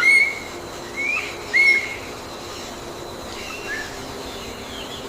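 Birdsong: short, clear whistled notes, three loud ones in the first two seconds, some sliding up or down, then a few fainter ones near the end, over a steady background hum.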